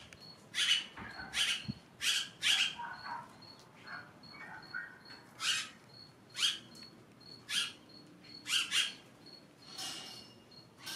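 Birds chirping: short, sharp calls repeated every half second to a second, with a faint high peeping repeated a few times a second behind them.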